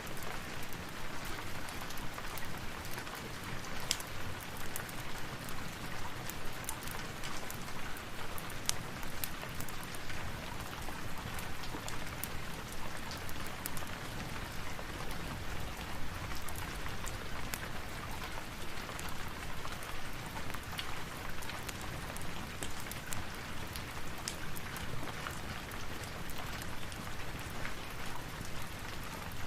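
Steady rain, with scattered sharp ticks throughout.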